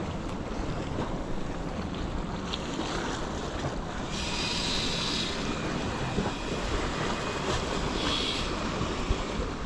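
Surf washing against a rocky shore, with wind buffeting the microphone in a low rumble. Two brief higher hisses stand out, about four seconds in and again near eight seconds.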